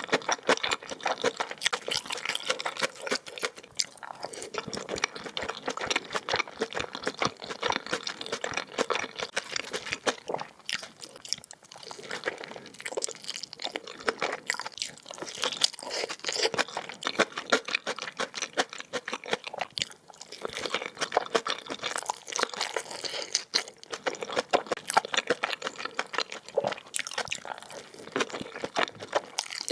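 A person chewing kimchi mandu dumplings in spicy chili oil, with a continuous run of irregular wet clicks and crunching mouth sounds, picked up close for eating-sound ASMR.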